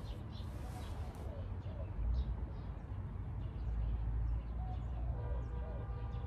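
Small birds chirping now and then over a steady low outdoor rumble. A steady hum of several even tones comes in about five seconds in.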